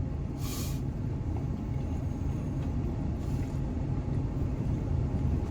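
Steady low rumble of an idling vehicle engine, with a short rustling noise about half a second in.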